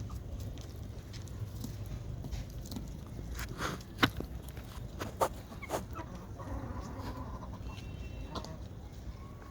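Domestic turkeys giving a few short, sharp calls, the loudest about four seconds in, over a steady low background noise.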